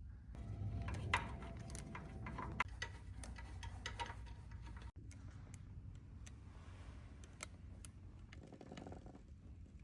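Scattered light clicks and taps of hand tools and metal parts while aluminum fork guards are fitted to a motorcycle's front forks, with a few sharper clicks about a second in, two and a half seconds in and near seven and a half seconds.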